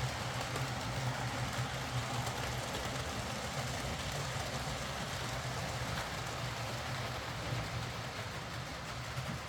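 Hornby Britannia Class OO gauge model steam locomotive running steadily on the track: a low steady motor hum with the wheels running on the rails, running again now that its split double gear has been replaced.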